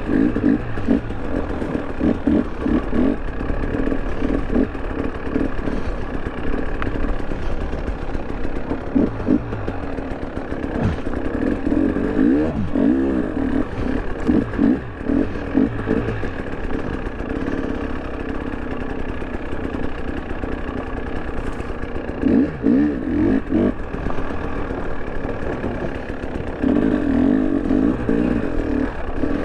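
KTM 300 Erzbergrodeo's two-stroke dirt bike engine running while it warms up, its pitch rising and falling in repeated bursts of throttle.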